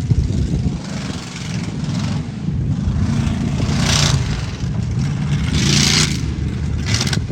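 An off-road competition truck's engine revving, with two loud rushing bursts of noise about four and six seconds in.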